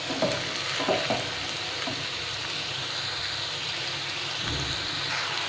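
Diced bottle gourd sizzling in hot oil in a wok on high heat, stirred with a spatula that scrapes and knocks against the pan a few times in the first couple of seconds.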